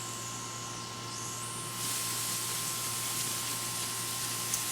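Garden hose spraying water with a steady hiss that grows a little louder about two seconds in.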